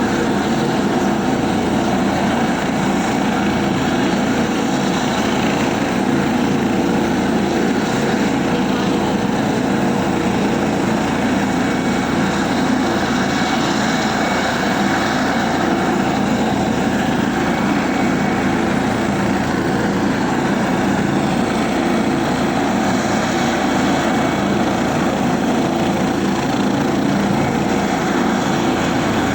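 Helicopter in flight heard from inside the cabin: a steady loud drone with a few faint, steady whining tones over it.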